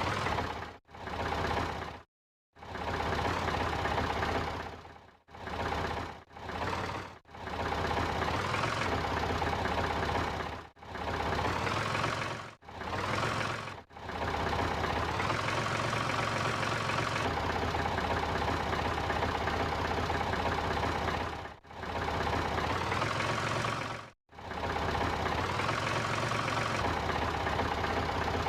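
Small engine of a Daewoo Labo mini truck running steadily, its pitch shifting slightly a few times. The sound cuts out abruptly to silence several times for a fraction of a second.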